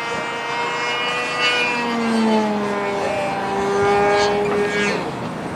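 Electric motor and propeller of a ModelAero Polaris XL RC seaplane whining in flight, its pitch easing slowly downward, with a second, lower tone joining about two seconds in.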